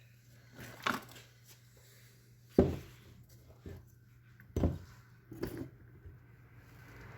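Workbench handling sounds while wiring a rewound submersible motor: a few separate knocks and clatters of tools and parts being picked up and set down, the loudest about two and a half seconds in, over a steady low hum.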